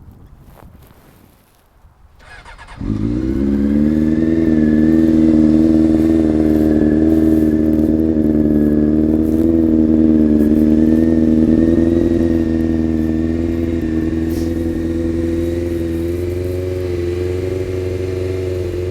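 2002 Honda CBR600 F4i inline-four with a Two Brothers aftermarket exhaust starting up about three seconds in, then idling steadily, a little louder at first and settling slightly quieter later on.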